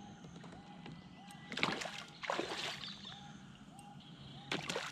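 Water splashing in three short bursts, about one and a half, two and a half, and four and a half seconds in.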